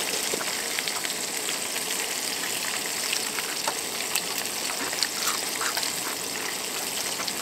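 Breaded squirrel pieces frying in hot oil: a steady sizzle with scattered small pops and crackles.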